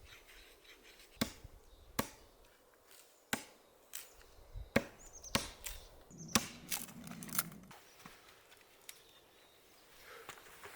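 Hatchet chopping wood: a series of sharp, irregularly spaced chops.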